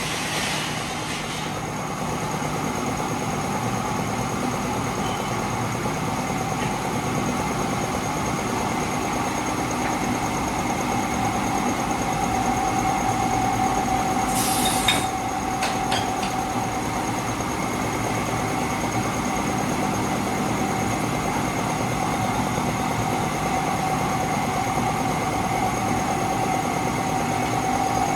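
Heavy machinery running steadily, a constant engine hum with a held whine, and a short hiss about halfway through.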